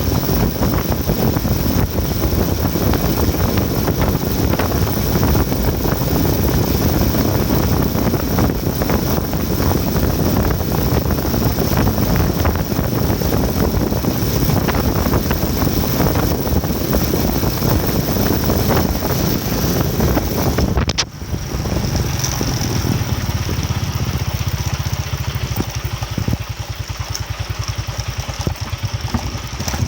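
Engine sound effect for a construction vehicle: a heavy, rough-running engine. A brief break comes about two-thirds of the way in, then a lower engine runs steadily with an even beat, like idling.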